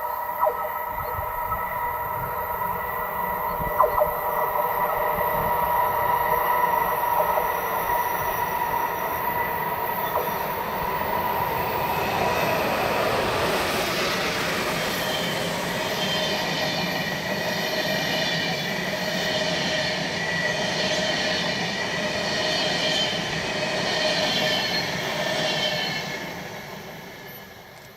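A train passing through a station, its wheels squealing on the curved mountain track with several steady high tones over rolling, clattering noise. The squeal dies away in the last couple of seconds as the train moves off.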